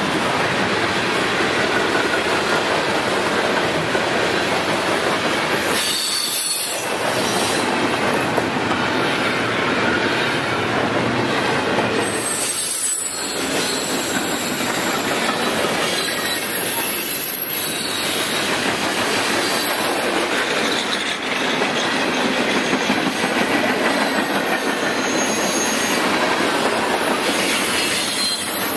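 Norfolk Southern manifest freight cars (boxcars and gondolas) rolling past close by: a steady roar of steel wheels on rail, with a thin high-pitched wheel squeal over it.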